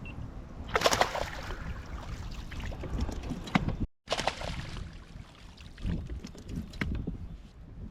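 Water splashing and sloshing around a kayak, with scattered knocks and clicks against the hull, over a low wind rumble on the microphone. The sound cuts out briefly near the middle.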